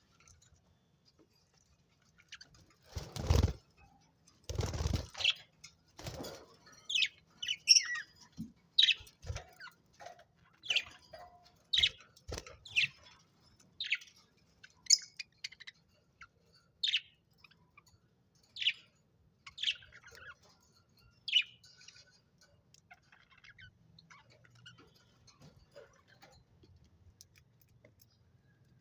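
Pet budgerigars chirping in short, high single calls, roughly one a second, with two louder rustling thumps a few seconds in, such as wings or a bird bumping in the cage. The calls thin out near the end.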